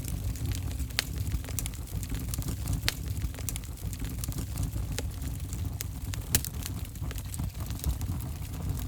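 Wood fire crackling, with sharp pops at irregular moments over a steady low rumble.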